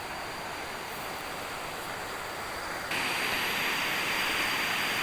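Steady rushing of a waterfall that jumps suddenly louder and hissier about three seconds in.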